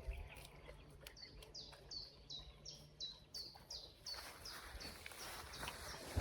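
A small songbird calling a steady series of short, high, downslurred notes, about three a second. The notes begin about a second in and grow fainter near the end.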